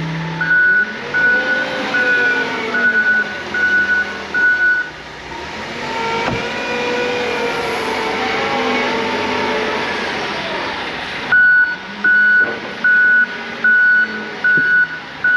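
Loader's backup alarm beeping steadily about every two thirds of a second as it reverses, with its engine revving up and down in the middle while it works the scoop; the beeping starts again near the end.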